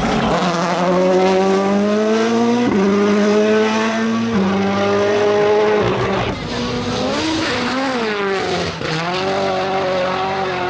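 Rally car engine under hard acceleration: revs climb and drop sharply twice at upshifts, then fall and rise again several times as the driver lifts off and gets back on the throttle.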